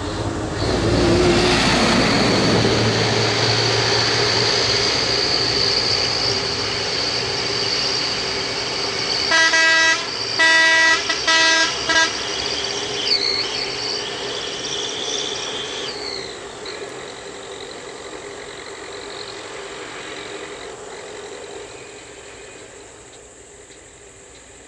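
A heavy road vehicle's engine running close by; its horn sounds in three short blasts about nine to twelve seconds in, then the engine noise fades away as the vehicle moves off.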